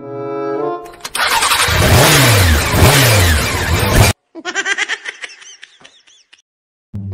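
A recorded motorcycle engine start-and-rev sound plays loudly for about three seconds, revving up and down twice, and cuts off suddenly. A shorter warbling pitched sound follows. Background music plays briefly at the start and comes back near the end.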